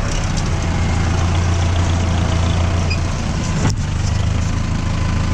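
Mahindra tractor's diesel engine idling steadily with a low, even hum. A single sharp click about two-thirds of the way through.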